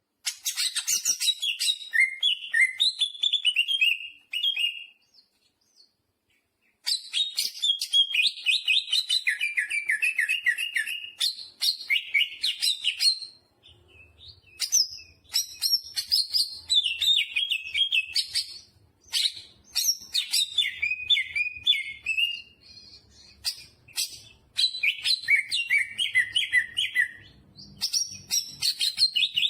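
Green leafbird (cucak hijau) singing steadily: fast runs of chirped, varied notes in phrases of a few seconds, with a pause of about two seconds near the start and a few shorter breaks. Its song is full of mimicked phrases (isian).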